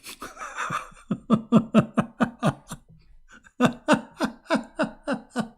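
A man laughing in two bouts of quick, rhythmic 'ha-ha-ha' pulses, about five a second, with a short pause between them.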